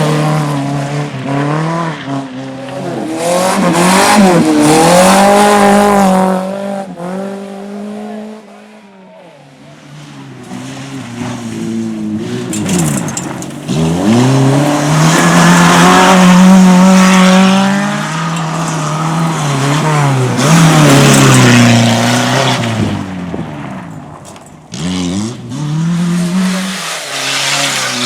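Rally cars driven hard on a stage, engines revving up and dropping back through gear changes and corners, with tyres squealing at times. The engine note fades to a quieter lull around nine seconds in before the next car comes through loud.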